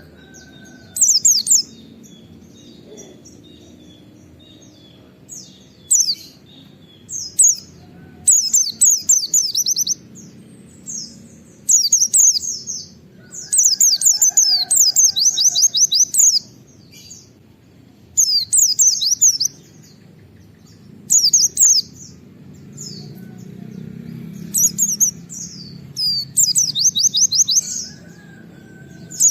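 White-eye (pleci) singing in repeated bursts of rapid, high, down-slurred notes, each burst lasting about a second or two, with short pauses between them. These are the fast 'wit wit' shooting (nembak) phrases used as a master song to spur other white-eyes to sing. A faint low background noise runs underneath.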